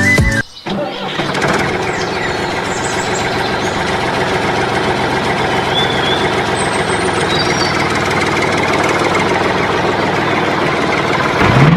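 An engine running steadily, with a few faint bird chirps above it.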